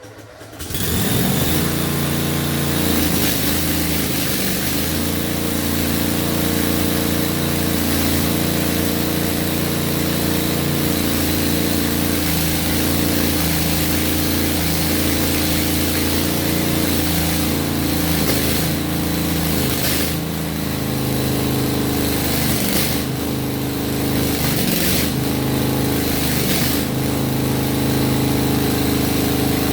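An engine cold-starting after sitting through the winter: it catches about a second in and then runs steadily.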